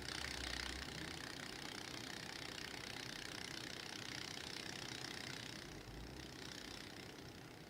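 Steady hissing static noise from a television's speaker, a fault on the cable channel's audio rather than its normal sound. The hiss is even and sits high, easing a little about two-thirds of the way through.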